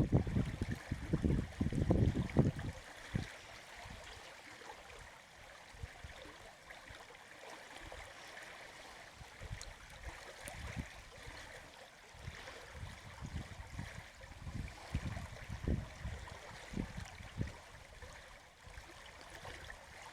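Creek running a little high after rain, its water flowing and trickling steadily. Low irregular rumbles come and go underneath, heaviest in the first couple of seconds.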